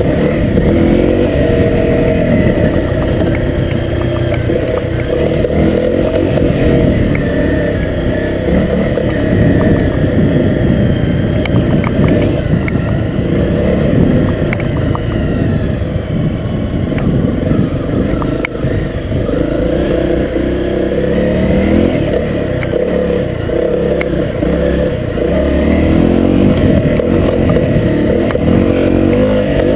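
Honda CRF250L's single-cylinder four-stroke engine running under way on a dirt trail, its pitch rising and falling again and again with the throttle. Occasional short clicks are heard over it.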